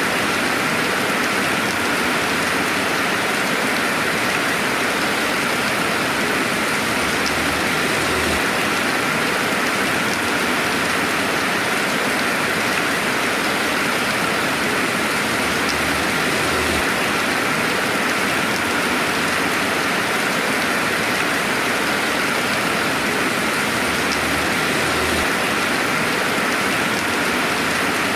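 Steady gentle rainfall: an even, unbroken hiss of rain with an occasional single drop ticking through.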